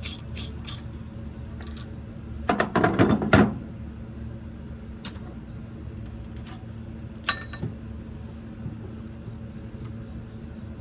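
Metal clinking and clattering, a rapid burst of it about two and a half seconds in, then a few single clicks, over a steady low hum.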